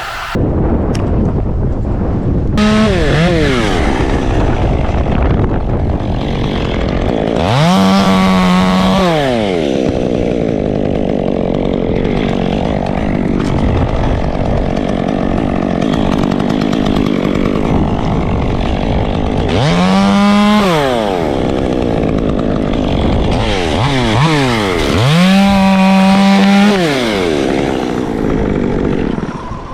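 Chainsaw revved to full throttle four times, each time holding high and then dropping back, the longest near the end. A steady engine noise runs underneath.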